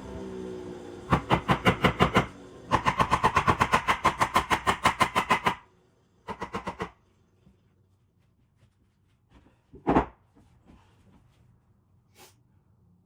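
Three bursts of rapid, evenly spaced knocking, about seven blows a second, the middle burst the longest, followed a few seconds later by a single thump.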